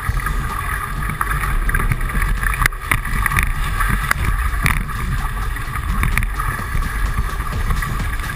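Strong wind buffeting the microphone over rushing water as a 420 sailing dinghy sails hard in a blow, with a few sharp knocks scattered through it.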